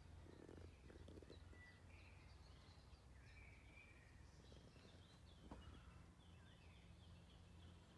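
Near silence: faint bird chirps and warbles over a low steady hum.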